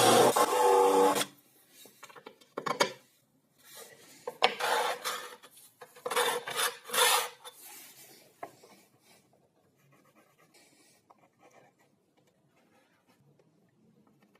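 A power tool running, winding down with falling pitch and stopping about a second in. Then come a few short bursts of scraping and rubbing on wood, like hand work on a workpiece, fading to faint handling sounds.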